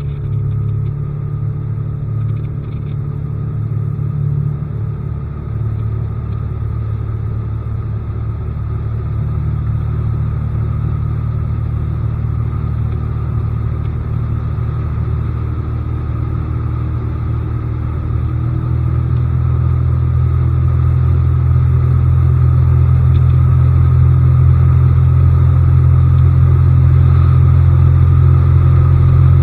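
Outboard motor on a bass boat running steadily, growing louder and steadier about two-thirds of the way in.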